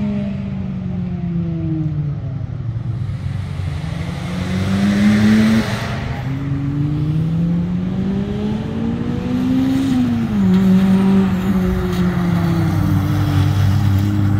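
Car engine on a wet track, revving up and falling back through a corner: the note sinks, climbs, and drops suddenly twice, about five and a half and ten seconds in, then holds steady and sinks slowly.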